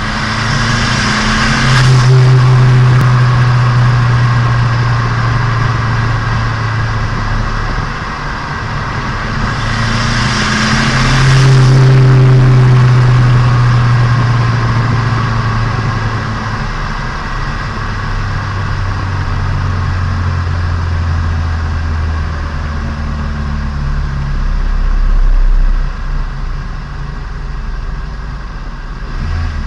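Turbocharged Nissan Micra engine and exhaust heard from on board while driving the engine in. There are two louder spells of harder throttle, about a second and ten seconds in, before it settles to a lower, steady drone.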